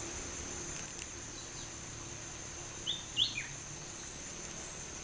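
An unidentified bird sings one short three-note phrase about three seconds in: a brief note, a louder note sweeping upward, then a lower falling note. A steady high-pitched insect drone runs underneath.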